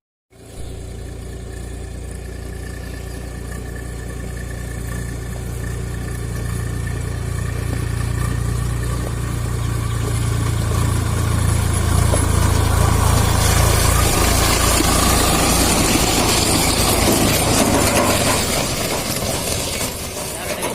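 Swaraj 744 XM tractor's three-cylinder diesel engine running steadily. It grows louder over the first ten seconds or so, as if drawing near, then eases off a little near the end.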